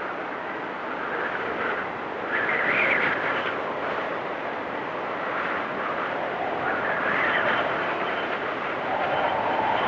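Blizzard wind blowing in gusts, a steady rushing noise whose pitch rises and falls as it swells; the strongest gusts come about three seconds in and again around seven seconds.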